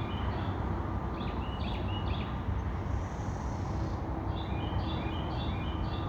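Two songbirds singing back and forth, each bout a short phrase of repeated whistled notes, over a steady low rumble of distant road traffic.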